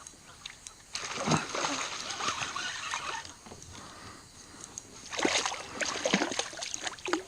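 Water splashing in two bouts, about a second in and again around five seconds in: a hooked catfish thrashing at the surface as it is brought to the kayak.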